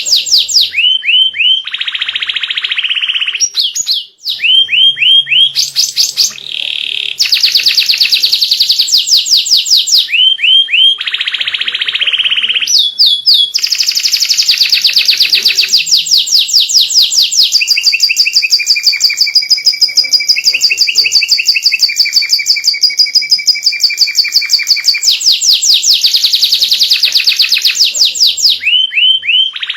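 White domestic canary singing a long, unbroken song of rapid high trills and buzzy rolls, with quick rising glide notes between phrases and a long run of fast, even trilling in the middle.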